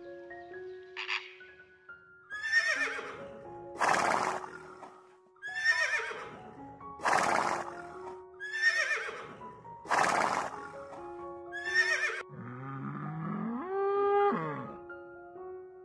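A horse neighing again and again, a string of shrill whinnies, then near the end a cow mooing once, rising and then falling in pitch. Background music plays under both.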